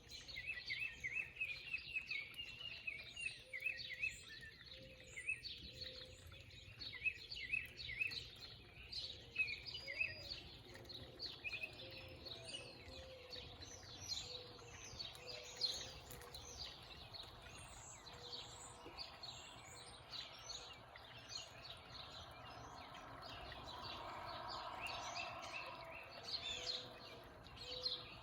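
Several small songbirds chirping and calling, many short high chirps overlapping, with quick chirp series thickest in the first ten seconds or so. A soft rushing sound swells and fades near the end.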